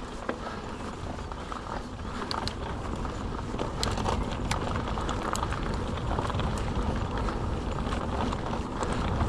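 Mountain bike rolling along a rough off-road track: tyre noise with many small rattling clicks from the bike and loose stones, over a steady low rumble, growing louder about three seconds in.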